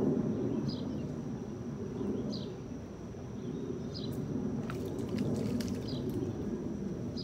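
A bird repeating a short high chirp about every second and a half, over a thin steady high insect drone and a low rumbling background, with a few faint sharp clicks about five seconds in.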